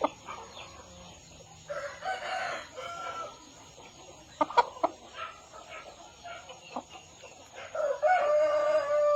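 Chickens clucking, with a few sharp clicks midway and a rooster crowing near the end in one long held call.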